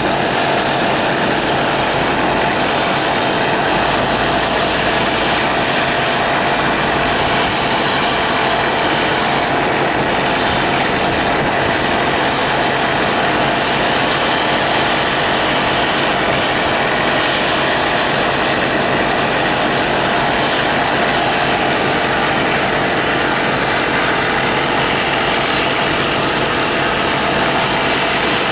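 A motor running steadily with a constant hum, unchanging in pitch and level.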